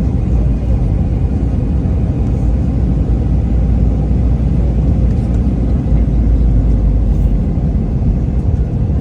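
Steady low rumble of an airliner heard from inside the passenger cabin, as the plane rolls on the ground after landing.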